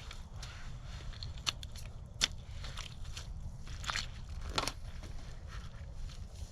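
Digging in wet, mucky ground to set concrete pieces for a fire pit: scattered crunches and scrapes, with a sharper knock about two seconds in, over a steady low rumble.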